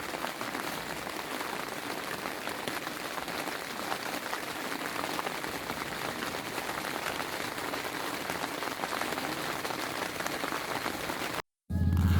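Rain falling steadily, a dense hiss made of many close drop hits. Near the end it cuts off abruptly to an engine's low, steady hum.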